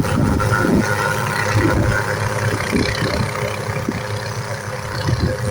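Hughes 500 helicopter running: a steady turbine whine over the low beat and rumble of the rotor, easing slightly in level.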